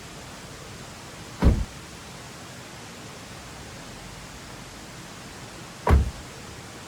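Two heavy, dull thumps about four seconds apart over a steady hiss.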